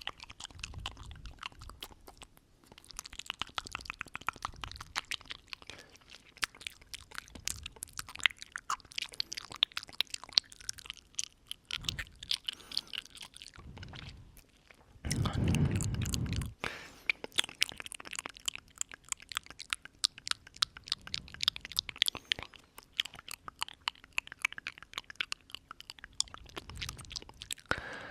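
Close-up ASMR mouth sounds: a dense, irregular run of wet clicks and smacks from lips and tongue. About halfway through, a louder breath is blown onto the microphone for a second or so.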